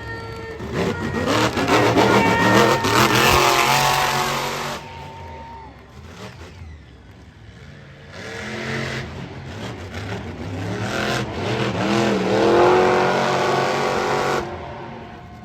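Monster truck engines revving hard, rising and falling in pitch in two loud runs with a quieter stretch in between.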